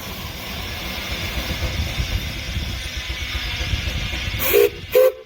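Steam traction engine running with a steady hiss of steam and a low rumble. Near the end come two short, loud blasts.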